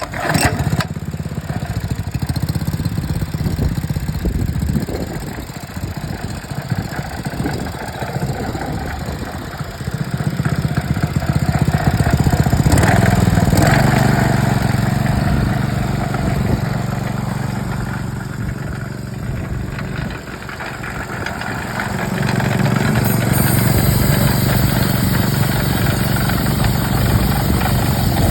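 Honda petrol engine on a Koshin KH-50 engine pump catching right away and running. It gets louder about ten seconds in, eases off near twenty seconds, then rises again a couple of seconds later.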